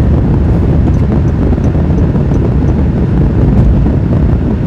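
Steady road and wind rumble of a vehicle driving at speed, with wind buffeting the microphone.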